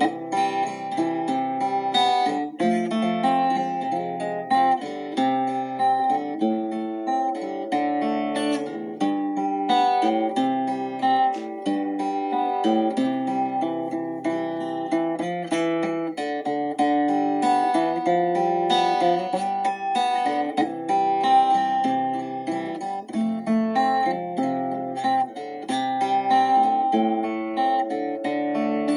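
Instrumental music played on acoustic guitar, with a continuous run of picked notes.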